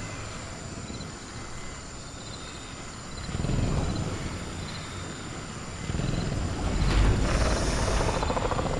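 Low growls of a sound-effect velociraptor, one short growl and then a longer one in the second half, with a brief sharp knock just after the longer growl begins. Under them runs a steady high cricket drone with faint chirps about once a second.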